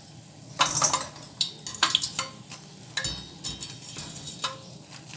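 Zalabia dough balls sizzling in hot oil in a steel pot, with a wire spider skimmer repeatedly scraping and clicking against the pot as the balls are stirred and scooped out. They are coming out after the first fry, to be fried a second time.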